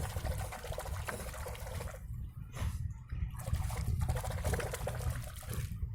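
Shallow water trickling and splashing, with a steady low rumble underneath.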